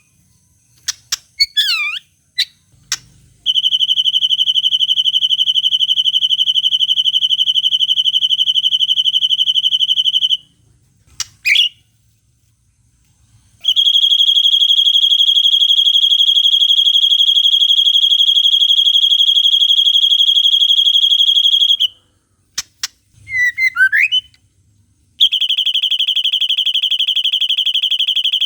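Recorded birdsong for training a white-rumped shama: three long, steady, high buzzing trills (the 'long cililin' call), each lasting about seven to eight seconds. Short swooping whistled calls fill the gaps between them.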